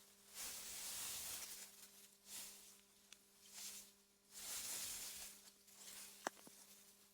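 Soft wind gusts through meadow grass: a faint hissing rustle that swells and dies away every second or so. A steady low hum runs underneath, and a single sharp click comes about six seconds in.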